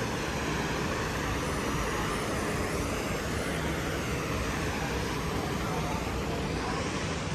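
Steady road-vehicle noise, an even rumble and hiss.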